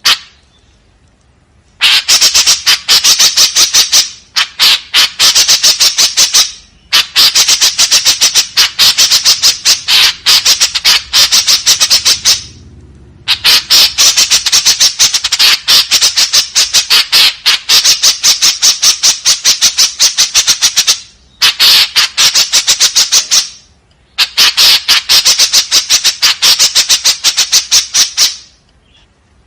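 White-breasted woodswallow (kekep babi) giving harsh, rapid-fire chattering calls, many sharp notes a second. The calls come in several loud bouts of a few seconds each, split by brief pauses.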